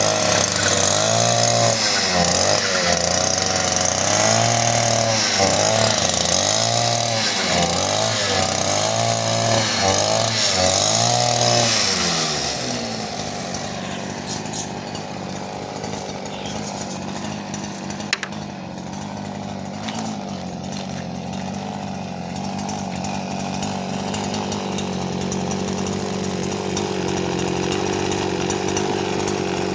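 Brush cutter's small two-stroke engine revving up and down over and over for about twelve seconds, then dropping to a lower, steadier running that slowly climbs again. A single sharp click sounds around the middle.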